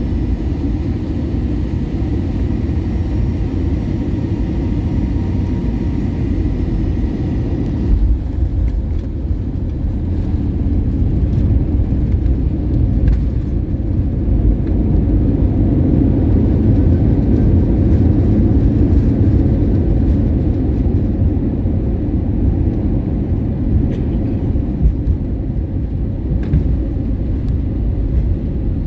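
Airliner cabin noise: a steady low rumble of engines and airflow. About eight seconds in, the higher hiss drops away and the low rumble carries on, with scattered small knocks.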